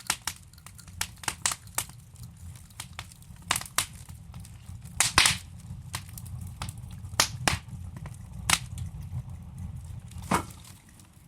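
Wood fire crackling in a fireplace: irregular sharp pops and snaps of burning logs over a low, steady rumble, with a cluster of louder pops about five seconds in.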